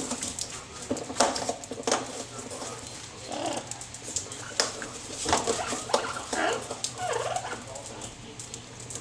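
Pet birds in a cage: scattered taps, clicks and rustling from beaks and feet on the cage and its contents, with a few short bird calls in the second half.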